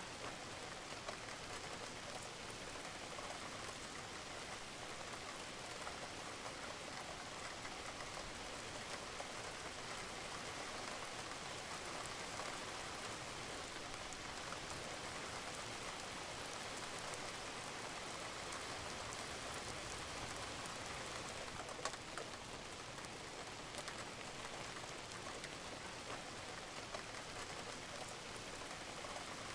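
Steady rain falling on a roof, with scattered individual drops ticking over it and one sharper drop about three-quarters of the way through.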